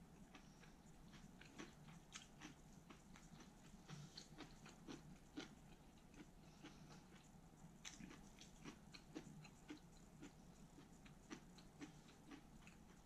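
Faint close-up chewing of grilled pork belly and lettuce wraps, with many small mouth clicks and crunches a few times a second.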